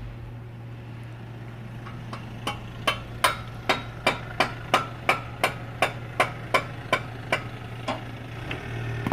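Kia Sorento's engine idling steadily. From about two seconds in, a run of sharp, evenly spaced clicks comes at roughly two to three a second, fading out near the end.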